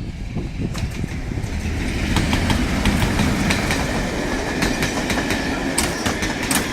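Train passing at speed, its wheels clattering rhythmically over the rail joints with many sharp clicks; it gets a little louder over the first couple of seconds and then holds steady.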